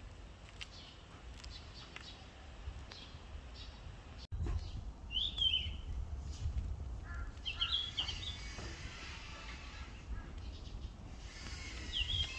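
Yellow-rumped flycatcher calling: short high chirps, one about five seconds in, a quick run around eight seconds and another near the end, over a low rumble.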